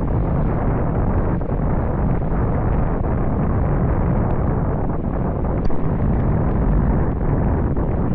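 Steady rush of wind buffeting the microphone, heaviest in the low end, with the water noise of a sailing yacht under way in 11–13 knots of wind.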